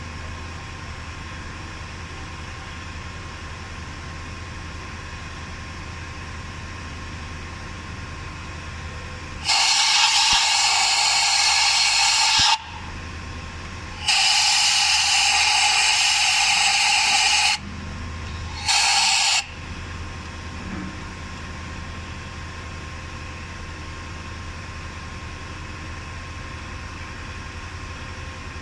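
Three blasts of compressed air from an air blow gun: about three seconds, then three and a half, then a short one under a second, over a steady low hum. This is typical of blowing water out of flooded spark plug wells.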